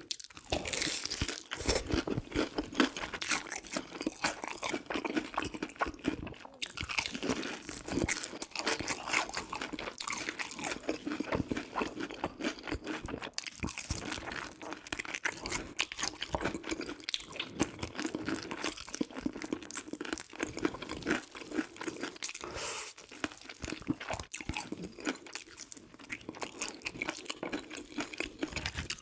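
Close-up crunching and chewing of crispy-skinned fried chicken, bite after bite in an uneven run of crackly crunches.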